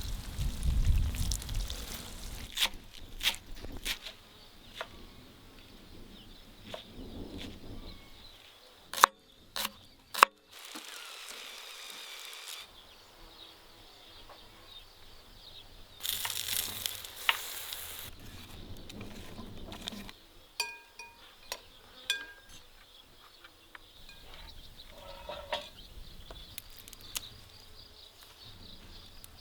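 Food sizzling in a pan over a campfire, with scattered clinks and scrapes of cooking utensils and a few sharp knocks about nine and ten seconds in.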